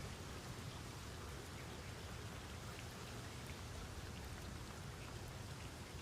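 Steady rainfall, an even hiss with scattered faint drop ticks and a low rumble underneath.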